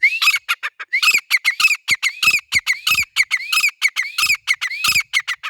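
Grey francolin calling: a loud, fast series of harsh, arching notes, about three a second.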